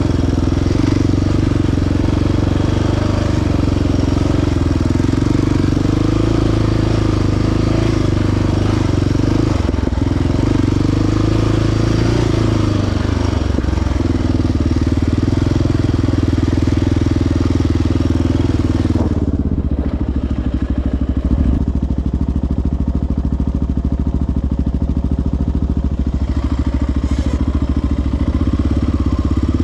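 Single-cylinder four-stroke sport ATV engine running along a trail, its revs rising and falling. About two-thirds of the way through it drops to a slow, even run, and the higher rushing noise above it fades.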